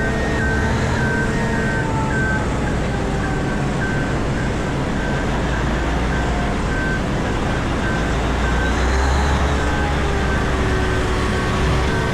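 Komatsu PC4000 hydraulic mining excavator heard from inside its cab: a steady deep machine drone from its power unit and hydraulics. A short high warning beep repeats about one and a half times a second throughout.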